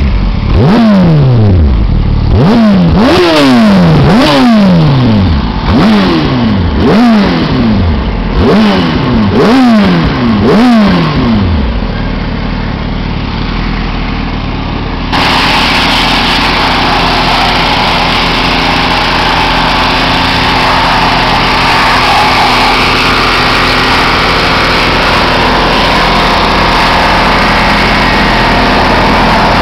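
2007 Yamaha R1 inline-four revved through Akrapovic carbon mufflers: about ten quick throttle blips, each rising sharply and falling back, then settling to a steady idle. About halfway through the sound switches abruptly to a steady engine run with heavy hiss over it.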